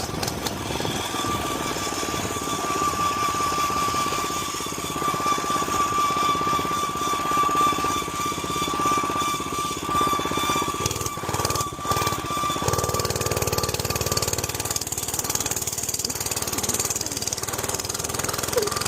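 Small gas mini bike engine running under way, its rapid firing steady throughout, with a thin high whine over it for much of the ride; about thirteen seconds in, the engine note shifts to a new steady pitch.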